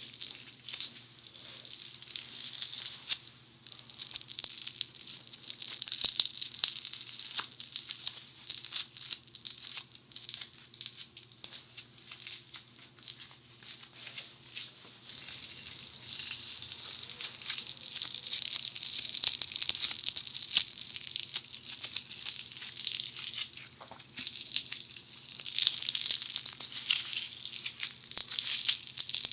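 Funny Foam squished and rubbed right on a binaural dummy head's ear microphones, a close crackling, fizzing texture with many small clicks. It grows louder and denser about halfway through.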